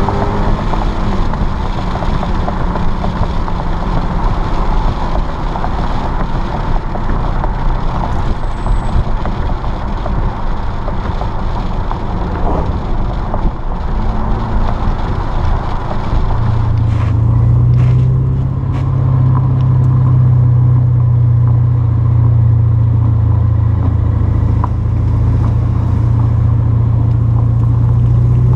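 2013 BMW 750Li's V8 exhaust through Flowmaster 50 Series Delta Flow mufflers while driving, with a brief rise in pitch at the start. From about a third of the way through it settles into a steady, louder low drone.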